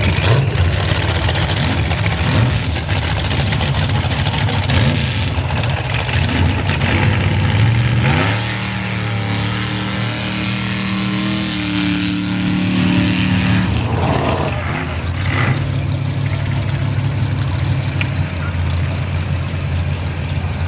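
Drag trucks' engines on a sand drag strip: a steady rumble, then about eight seconds in one engine revs up, holds high for about six seconds at full throttle, and drops back to a rumble.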